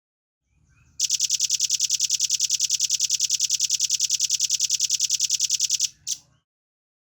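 Velvet-fronted nuthatch (rambatan paruh merah) singing a fast, rapid-fire trill of high, even notes, about ten a second for some five seconds, ending with one short extra note.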